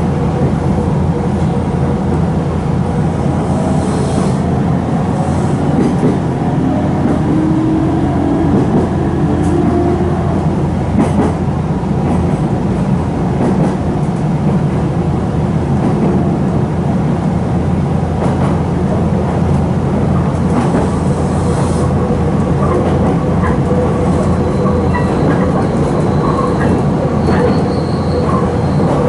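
Nankai 2300 series electric train running, heard from inside the car: a steady rumble of wheels on the rails and the motors. Near the end a thin, high wheel squeal begins.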